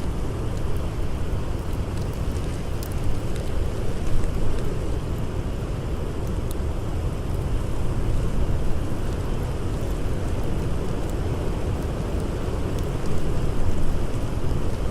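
Blizzard wind blowing as a steady low rumble that swells in gusts, louder near the end, with a few faint campfire crackles.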